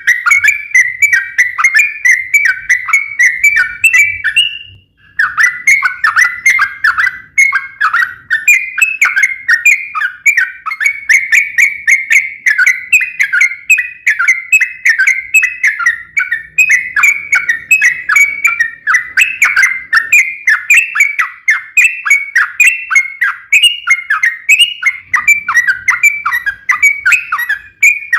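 Yellow-vented bulbul (trucukan) singing a long, fast run of chirping notes, several a second, with a short break about five seconds in.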